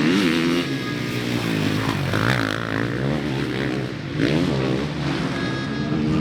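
Motocross bikes revving hard on the track, engine pitch rising and falling over and over as the riders accelerate and shift.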